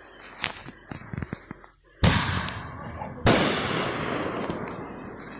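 Aerial fireworks bursting: two sharp bangs about a second and a half apart, each trailing off in a long fading echo.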